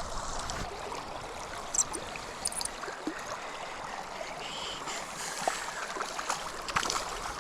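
River current flowing steadily, with a few faint light clicks.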